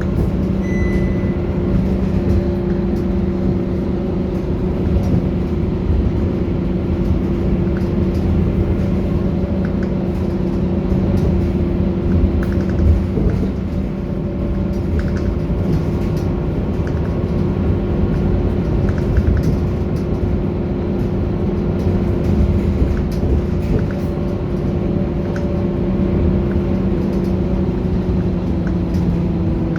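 A Scania K230UB Euro 4 bus's nine-litre five-cylinder diesel running at a steady speed with an even hum and rumble. Light clicks and rattles come and go through it.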